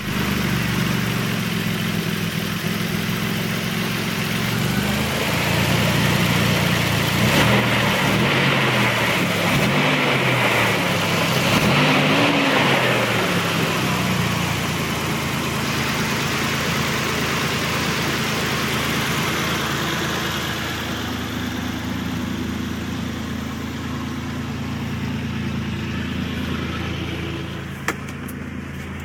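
Toyota Tacoma engine idling, revved up and down several times between about 5 and 13 seconds in, then settling back to a steady idle. One sharp click near the end.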